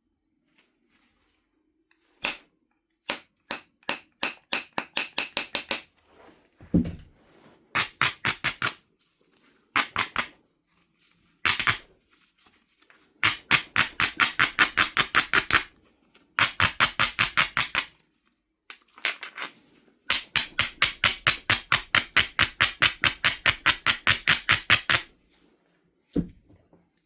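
Knife River flint biface being worked with stone: runs of quick, even scraping strokes, about eight a second, as the edge is abraded, with a few single knocks in between.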